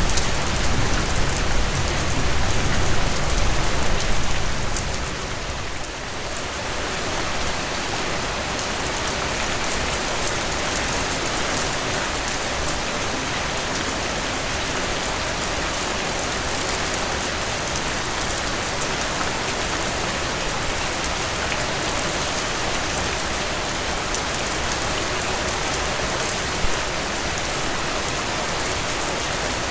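Steady rainfall, an even hiss of many drops with no pause. A low rumble sits under it for the first few seconds and fades out about five seconds in. One brief louder tap comes near the end.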